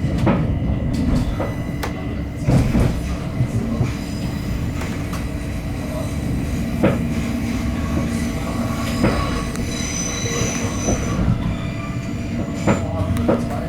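Electric train on the steep Uetliberg line running with a steady rumble, with irregular knocks from the wheels over the track. A high wheel squeal comes in briefly about ten seconds in.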